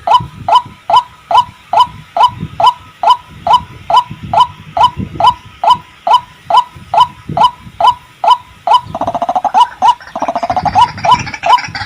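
White-breasted waterhen calling, a steady run of short hoarse 'ruak' notes about two to three a second. The calling grows busier and fuller near the end.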